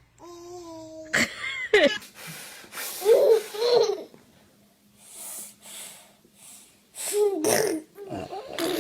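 A baby laughing and vocalising in short bursts: a held cry-like note, a sudden sharp burst about a second in, then laughing pulses and breathy sounds.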